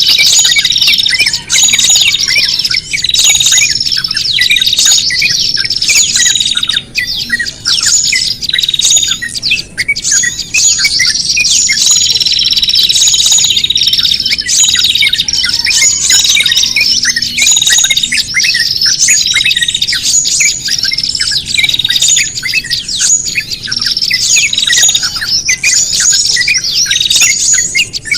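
A dense, noisy chorus of many small songbirds chirping and squawking over one another without a break. It is a mixed bird-lure recording of agitated calls, the kind played to draw small birds in for trapping.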